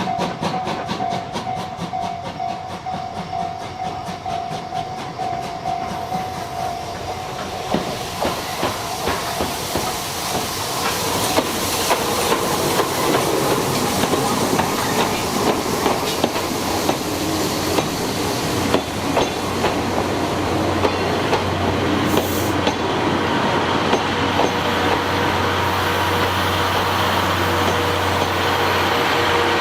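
An SL Taiju train passing on the Tobu Kinugawa Line, its wheels clicking over the rail joints and growing louder as it comes closer. A steady low hum joins about two-thirds of the way through.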